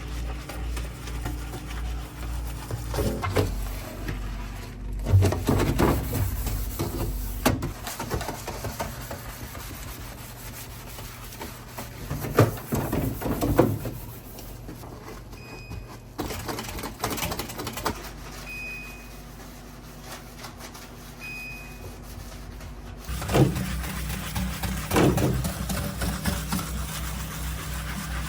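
Plastic containers and organizers being handled: irregular knocks, clatter and rubbing. Three short, high electronic beeps sound in the middle.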